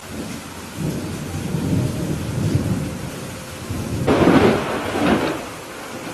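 Thunderstorm: steady rain with rolling thunder that rumbles from about a second in and peaks in a sharper, louder clap about four seconds in before fading.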